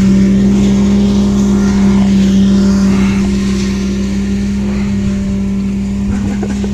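Engine of a mowing machine, a ride-on mower or tractor with cutter blades, running steadily close by: a loud, even drone that eases off slightly toward the end.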